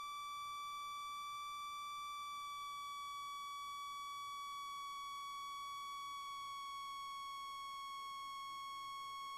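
A steady high-pitched electronic whine with a ladder of overtones in the cockpit intercom audio, its pitch sagging very slightly.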